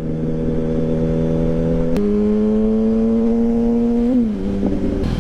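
Motorcycle engine under way at steady revs; about two seconds in the revs step up and climb steadily as the bike accelerates, then fall away just after four seconds as the throttle comes off.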